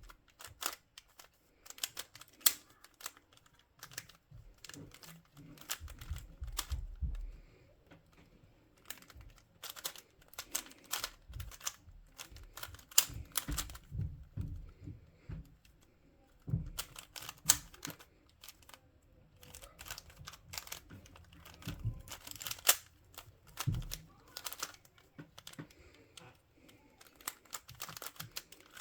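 Plastic speedcube being turned by hand: flurries of rapid clicking and clacking with short pauses between them, and a few dull knocks as it is handled.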